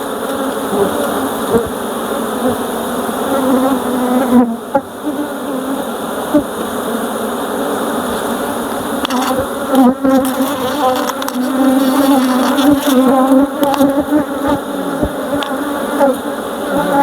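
Honeybees buzzing loudly around an opened hive: a steady hum of many bees whose pitch wavers slightly. A few short clicks come about ten seconds in.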